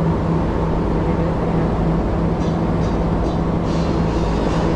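Cruise boat's engines running steadily, a constant low drone with a steady hum.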